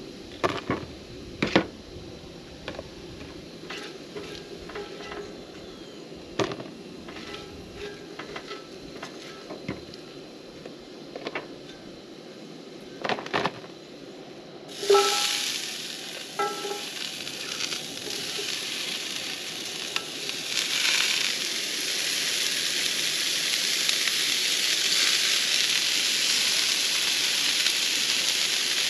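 A spatula scrapes and taps in a cast iron skillet in short, sharp clicks as diced potatoes are lifted out. About halfway through, broccoli and carrots hit the hot oil with a sudden sizzle, which carries on steadily and grows louder.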